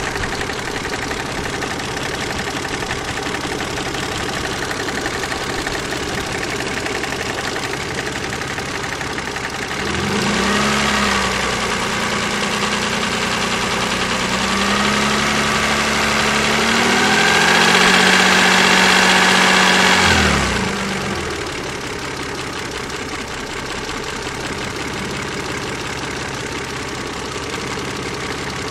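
KF 2.0 car engine idling with a knocking noise. About ten seconds in it is revved up, held for about ten seconds, then drops back to idle. The owner says the knock sounds like a hydraulic lifter but seems to come from the side of the engine.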